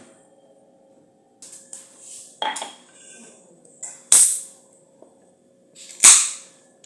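Pan and kitchen utensils clattering on a stove: a few light knocks, then sharp metallic clatters about two seconds apart, the last two loudest.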